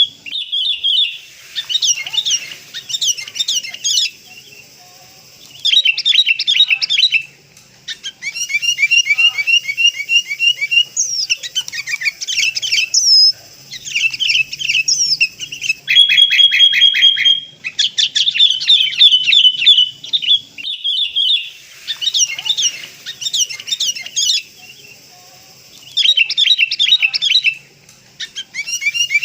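Sooty-headed bulbuls calling: bursts of rapid, chattering, high notes lasting a second or two, separated by short pauses, as used in a lure recording to attract wild bulbuls.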